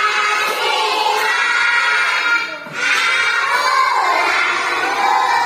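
A group of young children's voices in unison, held and sliding in pitch like singing or chanting, with a brief pause about two and a half seconds in.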